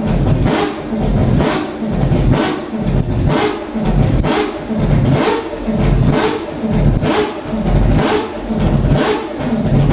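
Mazda 787B's four-rotor rotary racing engine being blipped on the throttle, revving up and dropping back about once a second, around ten times in a row.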